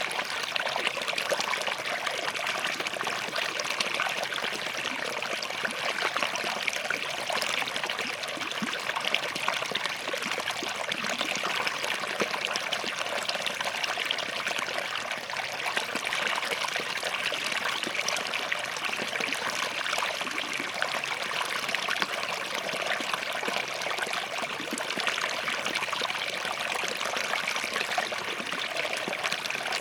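A small forest stream running steadily over and between rocks, a continuous trickling, splashing flow.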